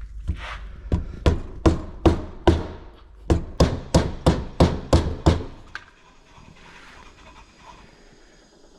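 About a dozen hammer blows on the seized Yamaha Tri-Z engine, each with a short metallic ring, coming two to three a second, then stopping about five and a half seconds in.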